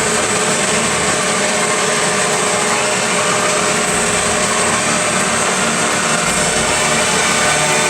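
Stage wind machines, large fans, running at full power and blowing the paper-snow blizzard: a loud, steady roar with a few held tones in it.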